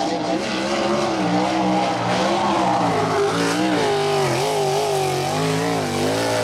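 USAC non-wing sprint car's V8 engine on a qualifying lap, its pitch falling and rising again and again as the driver lifts off and gets back on the throttle through the turns.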